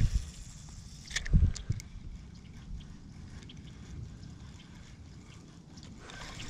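Faint water trickling and small splashes at the surface, with a few light knocks a little over a second in, over a low rumble.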